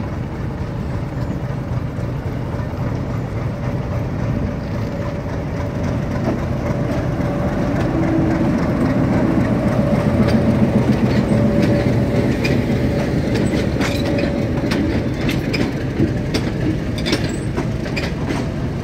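Metre-gauge diesel locomotive running slowly past, its engine drone building to its loudest about ten seconds in as it draws level. The coaches then roll by with a run of sharp clicks as the wheels cross the rail joints.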